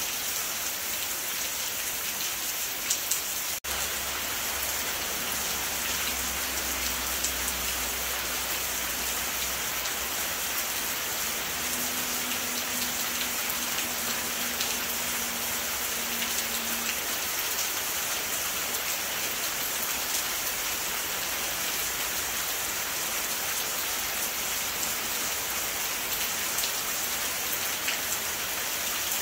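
Steady rain falling, an even hiss that never lets up, with a momentary dropout about three and a half seconds in.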